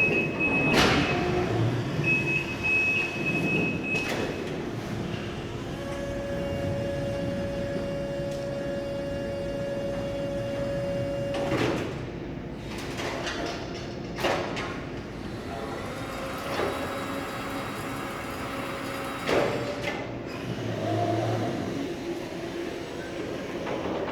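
Electric reach truck at work. A high steady beep sounds for about two seconds near the start, then a steady motor whine runs for about six seconds and cuts off, with scattered knocks and clunks throughout.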